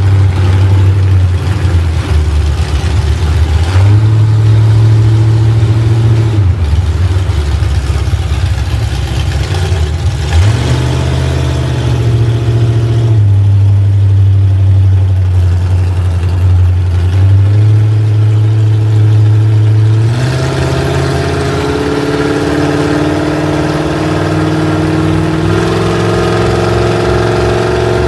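Vehicle engine heard on board during a ride, its speed stepping up and down every few seconds between two steady levels, then climbing gradually over the last third.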